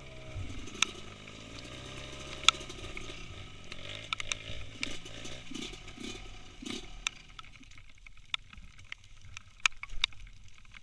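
Small motorcycle engine running, its pitch wavering up and down, then several short revs about four to seven seconds in before it drops low. Scattered sharp clicks and knocks follow through the second half.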